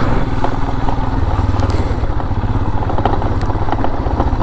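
Motorcycle engine running under way on a rough dirt and gravel road, with loose clattering and rattling over the bumps; the engine note changes about a second in.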